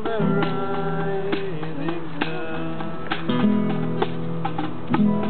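Music: a strummed acoustic guitar playing chords.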